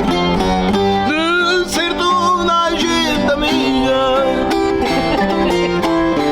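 Live folk music: voices singing along with plucked string instruments and an accordion.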